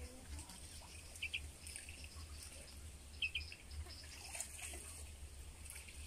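Small bird giving short paired chirps twice, about two seconds apart, over a low steady rumble.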